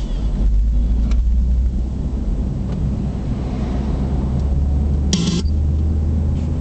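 A car driving on the road: a steady low rumble of engine and tyres, with one brief harsh noise about five seconds in.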